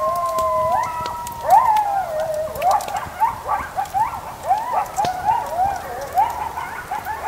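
A pack of coyotes howling and yipping: a long held howl for the first two seconds or so, then a run of short rising-and-falling yips from several animals overlapping. A campfire crackles faintly underneath.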